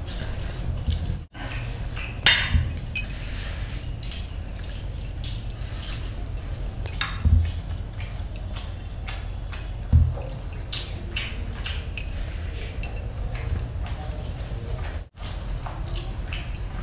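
Close-up wet chewing and lip-smacking as a man eats chicken biryani and a grilled chicken leg with his hands, with many small clicks and a few louder knocks.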